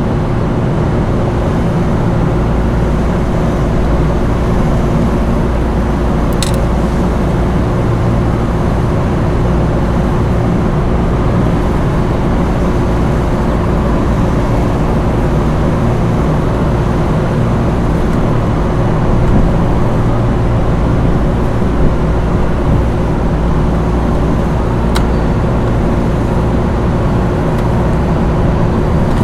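Steady low machinery drone with a constant hum, with two brief faint clicks, about six seconds in and near the end.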